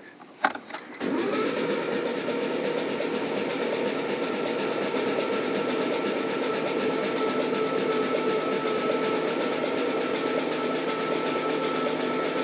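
Starter motor cranking a built Ford Coyote V8 over steadily without it firing, after a couple of clicks about half a second in. It is spinning the engine to build oil pressure after the oil pump has been primed.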